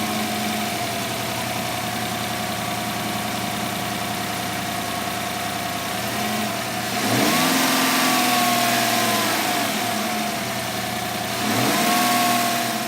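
2018 Chevrolet Silverado's 6.2-liter V8 idling, then revved twice: a longer rev rising from about six seconds in and settling back, and a shorter blip near the end.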